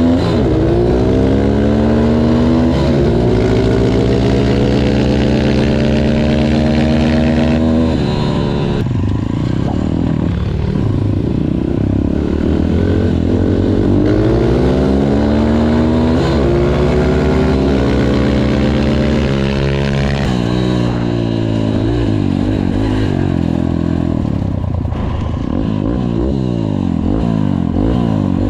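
Two small pit-bike engines, one of them an MRF 140 RC's four-stroke single, accelerating hard side by side from a standing start. The pitch climbs steeply through each gear and drops at every shift, several times over, then wavers up and down near the end.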